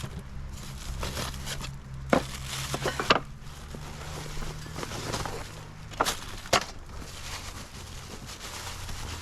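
A few sharp knocks or snaps: one about two seconds in, a pair about three seconds in, and two more about six seconds in. A low steady hum runs underneath.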